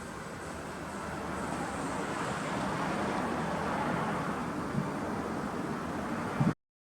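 Steady car noise without a clear engine note, swelling over the first few seconds, with a short knock near the end before the sound cuts off abruptly at an edit.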